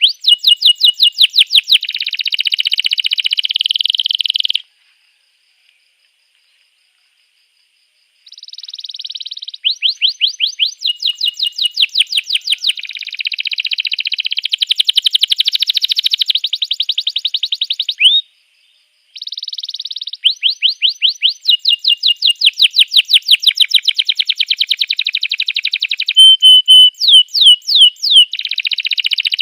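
Domestic canary singing: long runs of quick, repeated high notes, each run switching to a new note after a few seconds. There is a pause of about four seconds near the start and a brief break about two-thirds of the way through.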